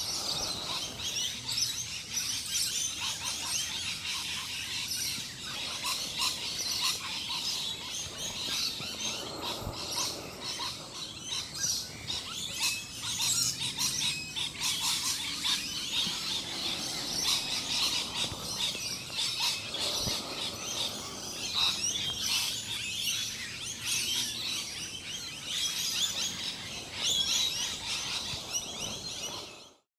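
Many songbirds chirping and calling at once, a dense overlapping chorus of short high notes. It stops abruptly near the end.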